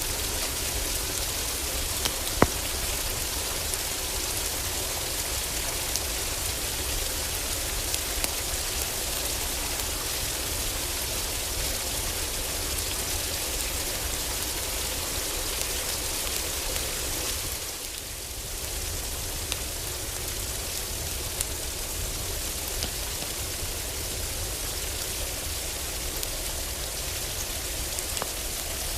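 Heavy rain falling steadily on a cabin roof, with a few sharp pops scattered through it from a crackling wood fire, the loudest about two seconds in. The rain briefly softens a little past the middle.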